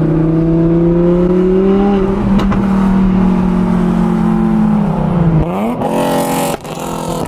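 A car engine held at high revs, stupid loud, for about five seconds. The revs dip, then shoot up again in a quick blip that ends in a short rasp and cuts off sharply near the end.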